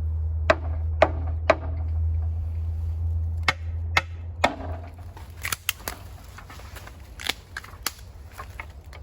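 Knocks on a bamboo stalk that feels dead: three sharp raps half a second apart, then three more about three seconds in. Lighter scattered clicks and snaps follow in the second half, over a steady low rumble that fades about halfway through.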